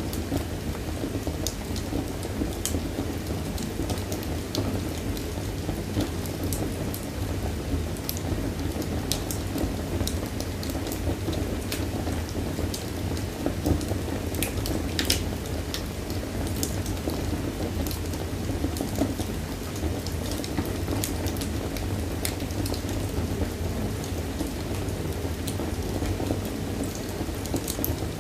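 Wood fire crackling in a fireplace: a steady low rumble of burning with irregular sharp pops and snaps, a few louder ones about halfway through.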